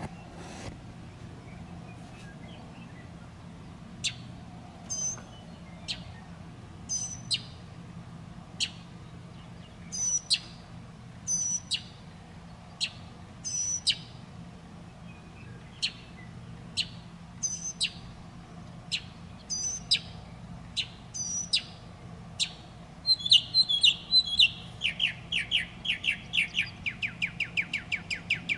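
A bird gives short, sharp chirps, roughly one a second. About 23 seconds in, it breaks into a fast run of rapidly repeated notes that carries on to the end.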